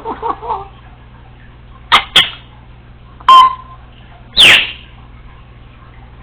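Congo African grey parrot giving a brief mumble, then a few loud, sharp calls: two quick clicks about two seconds in, a short squawk with a brief whistled tone, and a call that slides steeply down in pitch.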